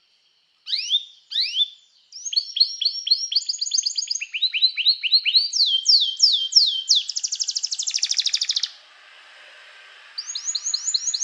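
Domestic canary singing: after a brief silence, two swooping notes, then runs of rapidly repeated notes that shift to a new pitch every second or so. A fast buzzy trill near the middle stops suddenly, followed by a short pause with faint hiss, and then another run of repeated notes.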